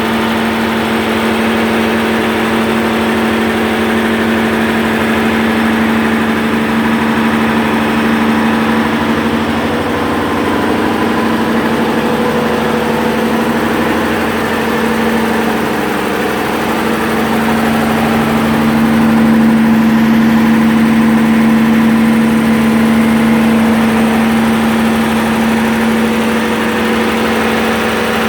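PSI 11.1-litre six-cylinder natural gas engine running steadily at about 1500 rpm under load, driving an irrigation well pump at about 600 gallons per minute. Its steady hum swells slightly about two-thirds of the way through.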